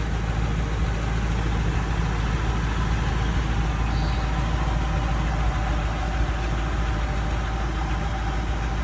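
Rebuilt Ford 8BA flathead V8 in a 1936 Ford 1.5-ton truck idling steadily, exhausting through custom headers and dual exhaust.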